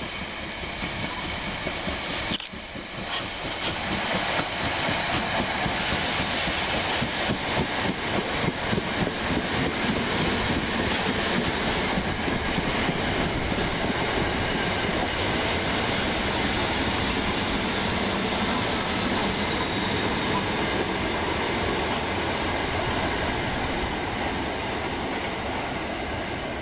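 Electric multiple-unit passenger train running through the station: steady running noise with a few held whining tones, a sharp click about two seconds in, and a brief hiss about six seconds in.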